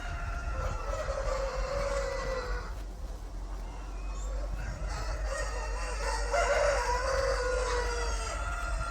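A rooster crowing: one long crow trails off a few seconds in, and another long crow follows about halfway through, over a steady low hum.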